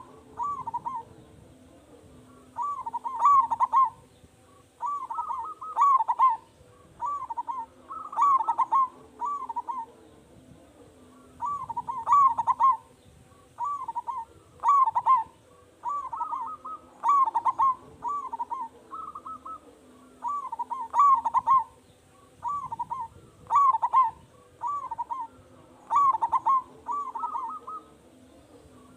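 Zebra dove (perkutut) cooing: short phrases of quick, staccato coos repeated one after another with brief gaps.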